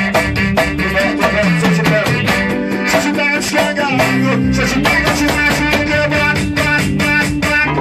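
A band playing an instrumental passage: a guitar melody over bass and a steady drum beat.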